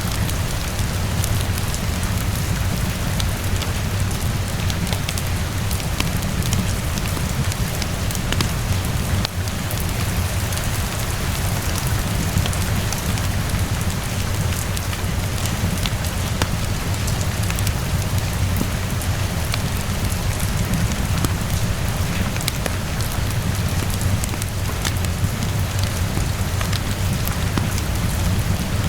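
Steady rainfall, heaviest in the low end, with scattered sharp crackles from a wood fire in a fireplace mixed in.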